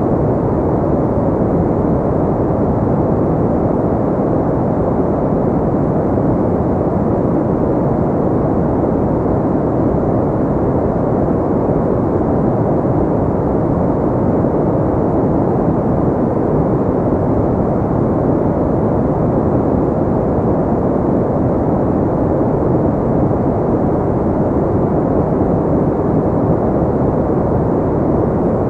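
Steady synthetic pink noise: an even, deep hiss with little treble that never changes in level or character.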